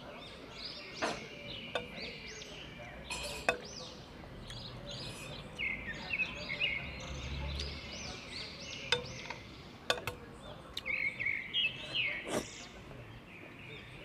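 Garden birds chirping and singing, a run of short, quickly repeated arched notes. A few sharp clicks of a spoon and fork against a glass dish.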